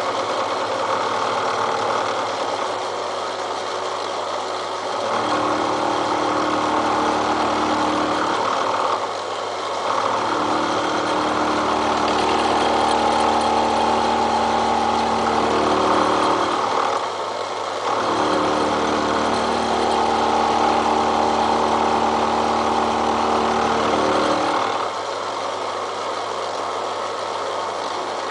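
Milling machine climb-milling the steel of a railroad-track anvil: the motor runs with a steady hum, and three times, for several seconds each, the cutter's pitched cutting noise rises loudly over it as it bites into the steel.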